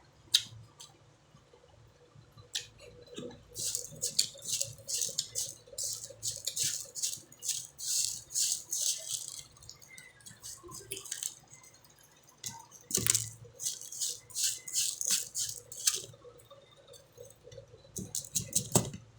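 Mouth noises of someone chewing mango with crunchy, crackling bites, in two long runs of rapid crunches with a pause between and a short burst near the end.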